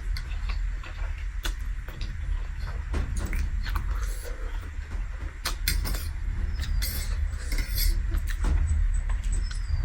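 Close-miked eating sounds: chewing and mouth noises with scattered short clicks and crunches, over a steady low rumble.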